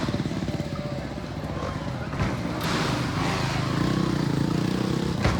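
Motocross motorcycle engine running with a pulsing note that revs up and falls back about midway. A brief sharp knock comes just before the end.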